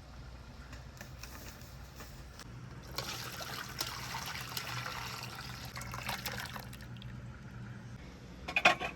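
Water running and splashing for about four seconds, starting about three seconds in, then a few sharp knocks near the end.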